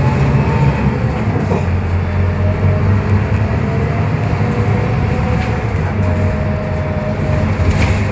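Scania K320UB hybrid bus driving along, with a steady low drone and a faint whine above it that shifts a little in pitch.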